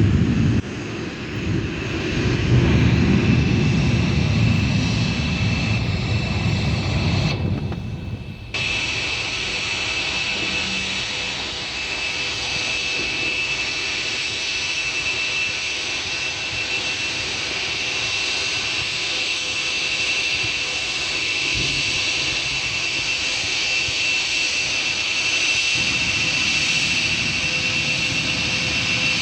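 Airbus A320 jet engines running: a heavy low rumble for the first several seconds, then, after a brief dip, a steady whine with a high, held tone over a softer rumble.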